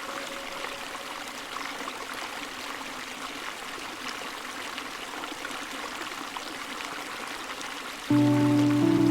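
Steady rush of running water, like a stream. Background music cuts in abruptly near the end.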